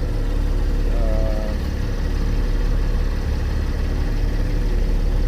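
A 2013 Cadillac CTS's 3.0-litre V6 idling with a steady low rumble.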